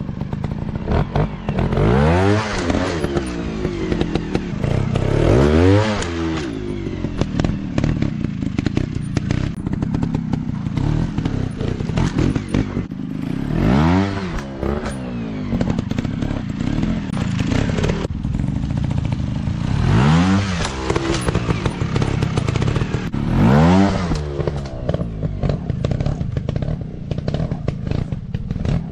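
Small off-road dirt bike engines running continuously. The engine pitch rises and falls back about five times as the throttle is opened and closed.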